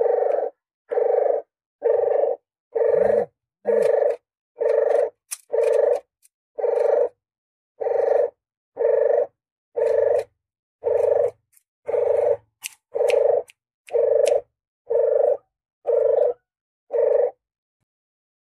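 Puter geni dove cooing, a lure call: about nineteen short, identical coos repeated steadily, about one a second.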